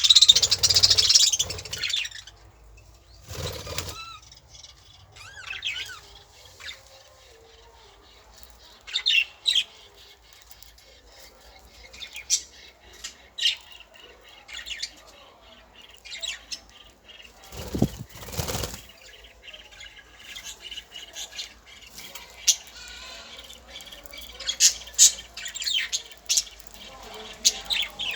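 Birds chirping in short high calls, with several loud bursts of wing-flapping, the biggest near the start and about 18 seconds in.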